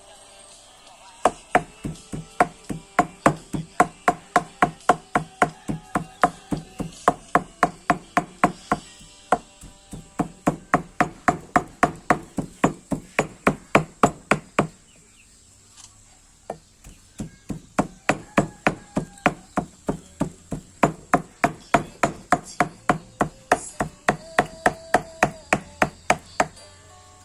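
Knife chopping raw meat on a chopping board to mince it for laab, in steady rapid strokes about three a second. The strokes stop briefly a few times.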